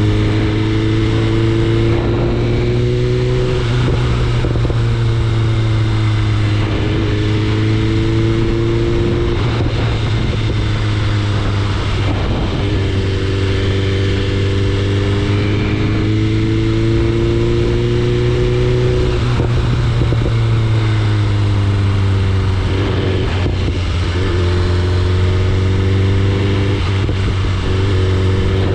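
BMW S1000RR sportbike's inline-four engine running under way, its pitch climbing slowly for several seconds and then falling back, about five times over, as the throttle and gears change.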